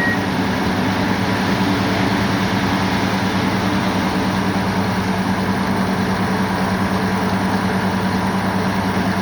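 Track tamping machine's engine idling steadily, an even low hum that does not change.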